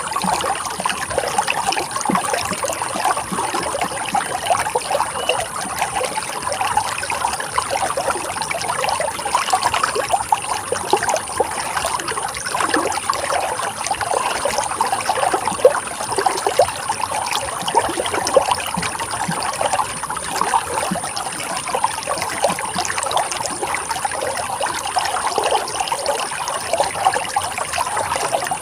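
Running water of a stream trickling and gurgling steadily, full of small quick splashes, with no change in strength.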